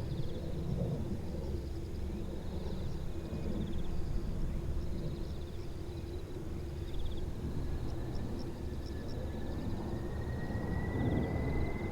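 Distant Boeing 767 jet airliner running as a low rumble, with a thin engine whine that comes in about two-thirds of the way through and rises slightly as the jet draws nearer. Insects chirp faintly in short pulses throughout.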